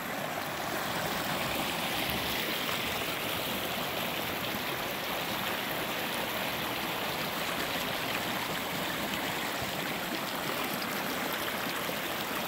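Small creek running over rocks: a steady rush and trickle of flowing water.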